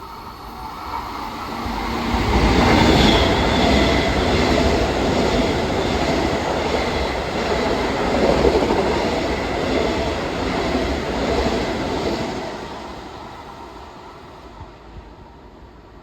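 Long Island Rail Road train going by on the rails. Its wheel and rail noise builds over the first couple of seconds, stays loud for about ten seconds, then fades away.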